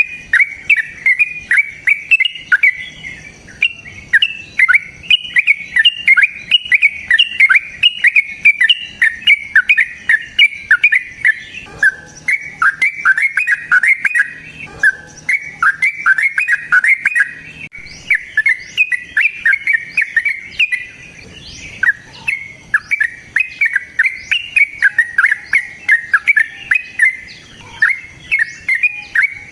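A cage bird singing a long, unbroken chattering song of rapid, high, falling chirps, about four a second. There are brief breaks about 12 and 22 seconds in.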